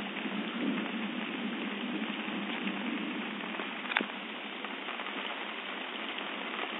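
Rain falling steadily during a thunderstorm, with one sharp tap about four seconds in.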